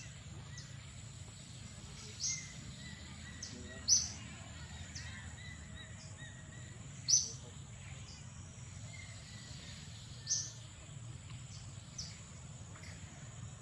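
Outdoor ambience: short, high chirps, about one every three seconds, over a steady high-pitched whine and a low rumble.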